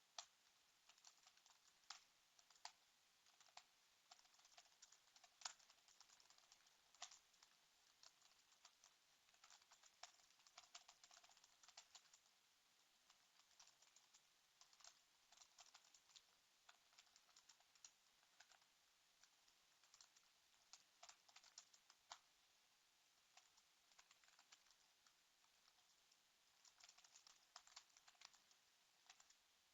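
Faint typing on a computer keyboard: irregular runs of quick keystroke clicks with short pauses between them.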